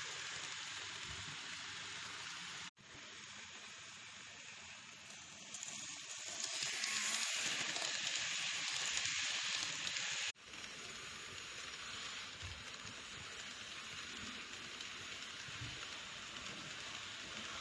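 N-gauge model train running on its track: a steady hissing whir of the small motor and the wheels on the rails. It is loudest for a few seconds in the middle, and it breaks off abruptly for an instant twice.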